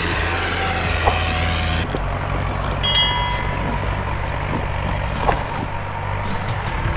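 Heavy machine engine running steadily with a low rumble. The sound changes about two seconds in, and a brief high-pitched tone sounds about a second later.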